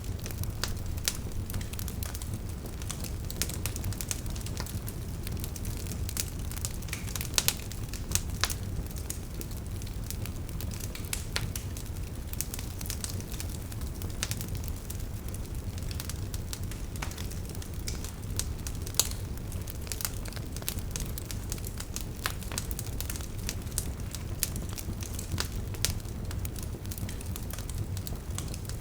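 Campfire burning, with a steady low rumble and frequent irregular crackles and sharper pops of burning wood.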